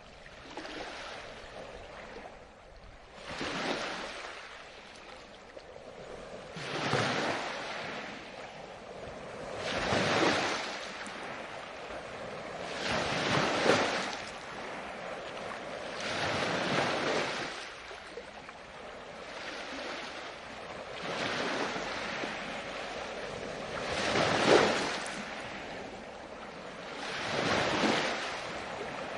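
Ocean surf on a beach: waves breaking one after another, a surge about every three to four seconds with a steady wash of water between.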